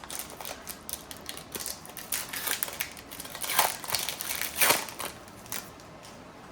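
Trading card pack wrapper being torn open and crinkled, in irregular crackling rustles with a couple of louder crackles in the middle.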